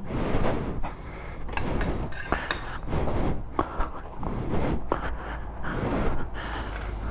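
Foam brush scrubbing soap over a motorcycle: irregular scrubbing and scraping with a few small clinks, over a steady low hum.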